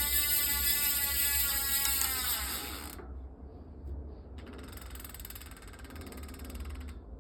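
A small motor's high whine that drops in pitch and dies away about three seconds in. After a short pause comes a fast, rattling buzz lasting about two and a half seconds.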